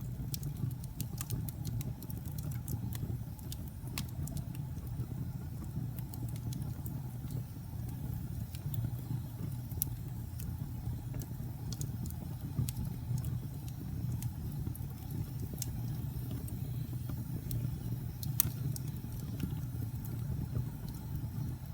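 Wood fire burning in a fireplace: a steady low rumble with frequent sharp crackles and pops, one louder pop late on.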